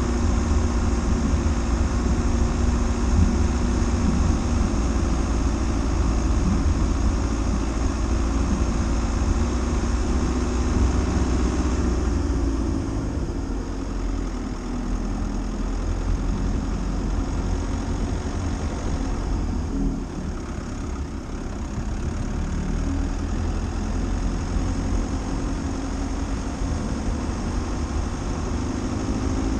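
Dacia Duster running with a steady, low engine and vehicle rumble. The engine tone softens about twelve seconds in, and the sound dips briefly around twenty seconds.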